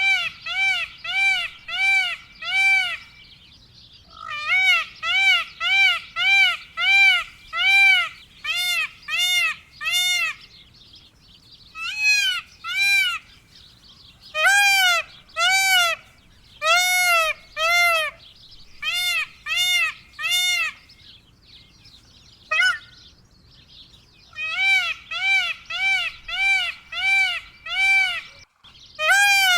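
Indian peafowl calling: runs of short notes, each rising then falling in pitch, about two a second, repeated in bursts of five to a dozen with brief pauses between.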